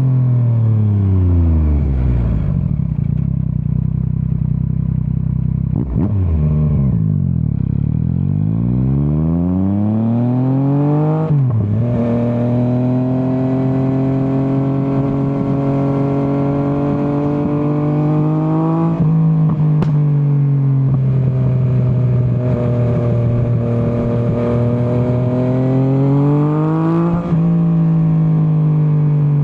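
Yamaha MT-09's three-cylinder engine under way. The revs fall away over the first few seconds and stay low for a while, then the engine pulls hard and climbs through the gears, with a quick drop in pitch at each of three upshifts.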